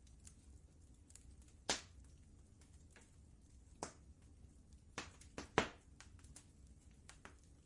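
Wood fire in a fireplace crackling, with scattered sharp pops at irregular intervals, a few louder ones in the middle, over a faint low rumble.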